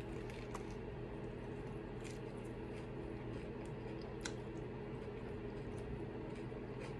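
A person chewing a mouthful of a stuffed tortilla wrap, with scattered soft mouth clicks and smacks as she eats and licks her fingers, over a steady low hum.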